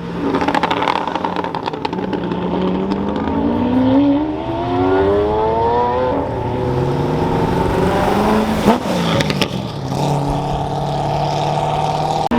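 Performance car engines accelerating hard past, their pitch climbing, dropping and climbing again as they go up through the revs. There is a sharp crack about nine seconds in, then one engine holds a steady note near the end.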